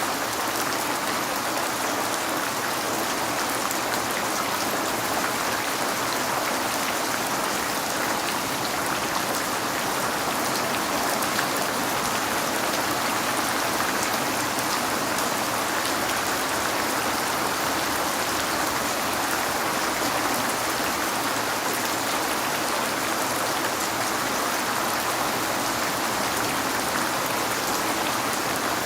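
Steady rain falling on a window: an even hiss of many small drops, with no change in strength.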